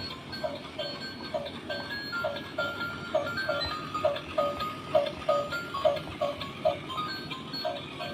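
Electronic tune of short, evenly repeated notes, about three a second, with thin higher tones above them.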